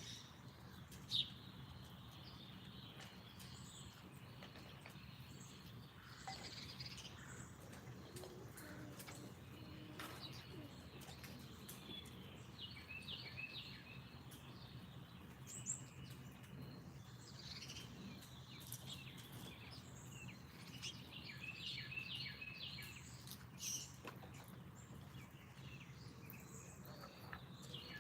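Wild songbirds chirping in short repeated phrases, a few times over, above a steady low background hum. One sharp click about a second in.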